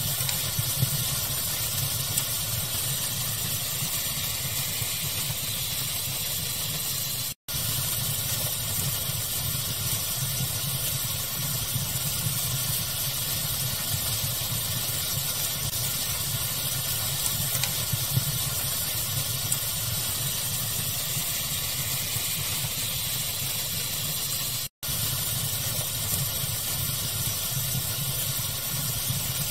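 Steady pink noise mixed with a crackling fire, with a low rumble underneath and occasional small pops. The sound cuts out completely for an instant twice, about a third of the way in and again near the end.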